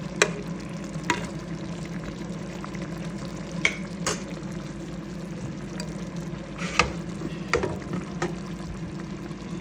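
Chicken afritada frying and sizzling in a pan, steady throughout, with about seven short sharp clicks of a utensil against the pan as it is stirred.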